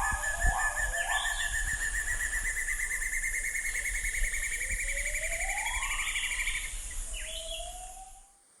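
Black-and-yellow broadbill calling: one long, rapid trill that rises slightly in pitch, the notes running closer together, and stops about two seconds before the end. Other birds call briefly over a steady high hiss, and the sound fades out at the end.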